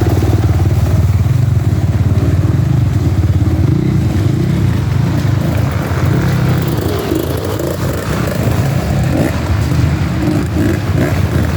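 Off-road enduro dirt bike engines running and revving unevenly as riders work through a muddy, slippery creek, the engine note rising and falling continuously.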